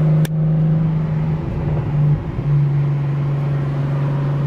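Single-turbo BMW N54 straight-six engine running steadily under light load, a strong even drone. There is a sharp click just after the start, and the engine note wavers for about a second around the middle before steadying again.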